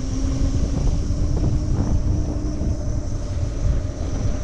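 Wind buffeting the microphone while riding an electric moped, with a steady hum from the moped that rises slightly and fades out about three seconds in.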